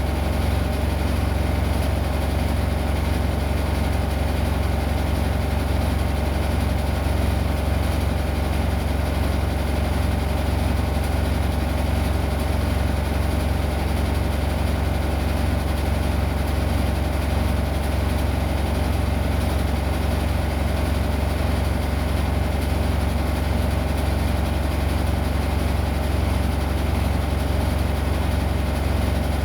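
Washing machine running mid-cycle, a steady low hum and drone that holds even throughout.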